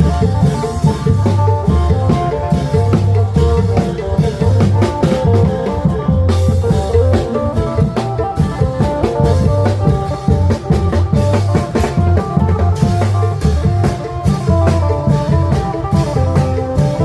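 Isan klong yao long-drum ensemble playing a lively procession tune: long drums and percussion keep a steady driving beat under a plucked phin lute melody.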